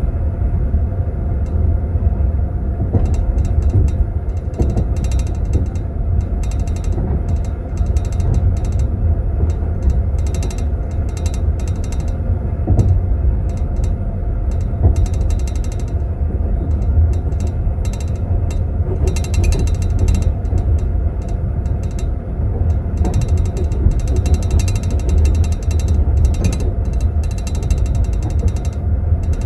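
Moving passenger train heard from inside a compartment: a steady low rumble, overlaid by rapid, on-and-off clinking and rattling of teaspoons in tea glasses in metal glass holders.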